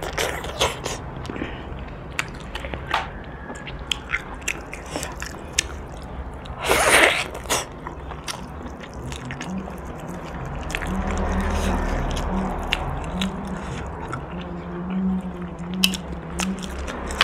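Close-miked eating sounds: biting, chewing and wet clicks as boiled pork bones are gnawed and the meat is pulled off by hand, with one louder, longer noisy burst about seven seconds in. A low steady hum comes in from about ten seconds on.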